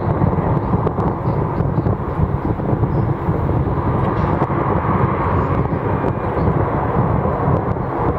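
Saab 340B twin-turboprop airliner's engines running with a steady rush, over wind buffeting the microphone.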